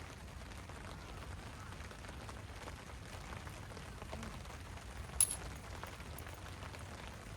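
Steady rain falling, with one sharp click about five seconds in.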